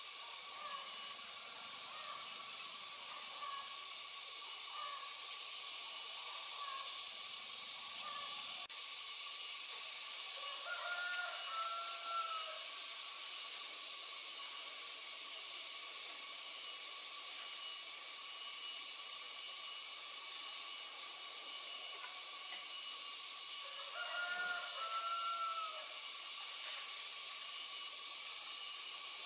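Outdoor ambience: a steady high hiss with scattered bird chirps, and a short two-note call about eleven seconds in and again near twenty-five seconds.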